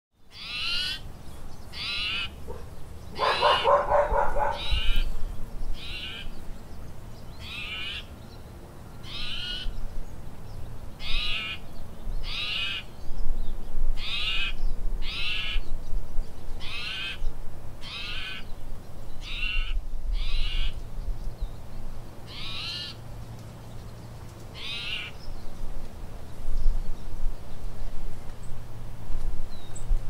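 A small bird calling over and over, a short high call about once a second, which stops a few seconds before the end. About three seconds in, a dog barks once. A low steady hum runs underneath.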